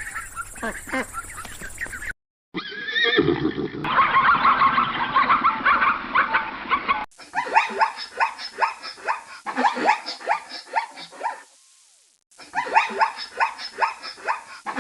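Animal calls in several short cut-together clips: a whinny-like call, then long runs of rapid, repeated short calls.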